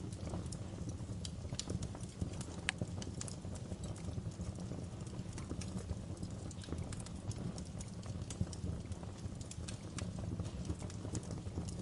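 Fire crackling: a steady low rumble of flames with irregular sharp pops and snaps scattered throughout.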